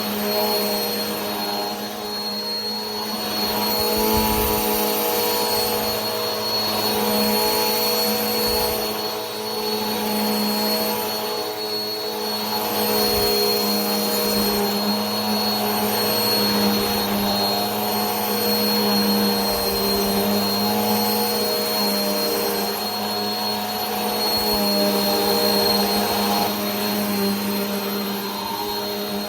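Vacuum cleaner running steadily: a constant motor whine with a high thin tone over a rush of air, swelling and easing slightly every few seconds.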